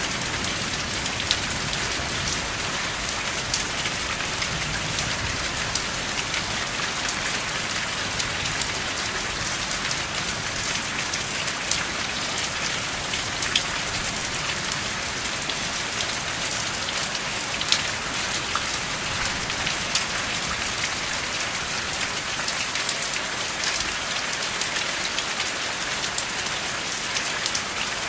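Steady rain: an even hiss with many scattered sharp ticks of individual drops striking, and no thunder.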